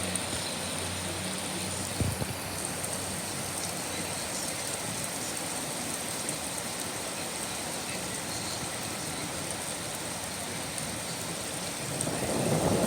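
Steady rain falling, an even hiss, with a single sharp tap about two seconds in. A louder low rush swells up near the end.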